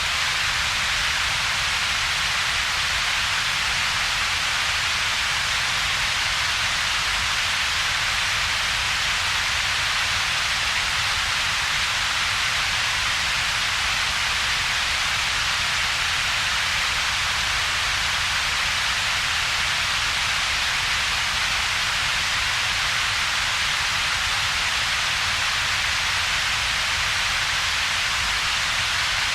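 Synthetic double-peaked noise, 'ultraviolet-yellow' noise: a steady, even hiss strongest in the upper-middle range, with a weaker low rumble beneath and a gap between the two.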